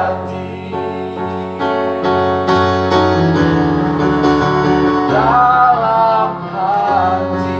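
A child singing a slow song over keyboard accompaniment, holding notes with vibrato. The voice rests for a few seconds while the keyboard chords carry on, and comes back about five seconds in for a long held line.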